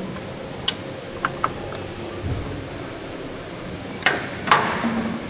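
Sharp metallic clinks and knocks of hand tools and brake parts being handled: a few light clicks in the first two seconds, then two louder ringing knocks about four seconds in, over a steady background hum.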